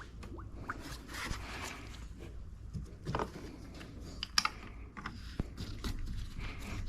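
Scattered light clicks and taps of a coolant reservoir cap and coolant jug being handled while the reservoir is topped up.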